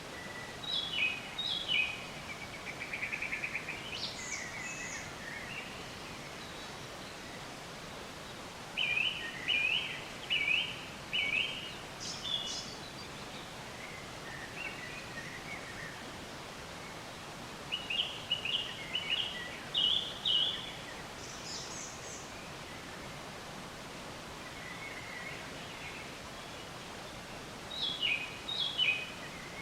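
Songbirds chirping in short bursts of a few quick repeated notes, with a fast trill about three seconds in, over a steady outdoor hiss.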